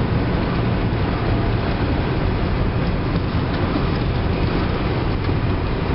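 Steady road and tyre noise with engine hum inside the cabin of a 1997 Toyota Avalon cruising at speed. No knocks or clunks stand out.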